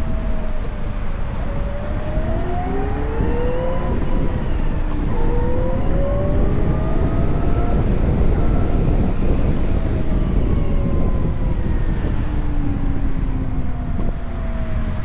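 VMoto Stash electric motorcycle's motor whining, rising in pitch as it speeds up and falling as it slows, twice rising and falling again, over a steady rumble of wind and road noise.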